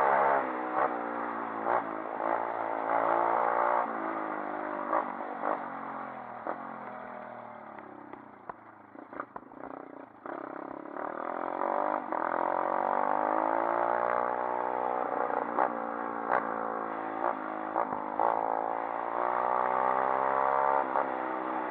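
140cc pit bike's single-cylinder four-stroke engine revving up and down as it is ridden. The engine note fades away about eight seconds in, then comes back louder, its pitch climbing, from about eleven seconds.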